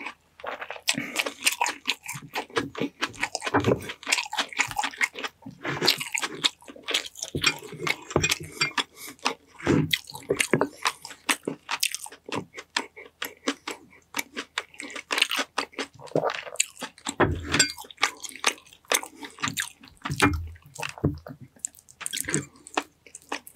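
Close-miked chewing of sticky honey-glazed chicken: dense, irregular wet smacks and clicks of lips and mouth, with small crunches.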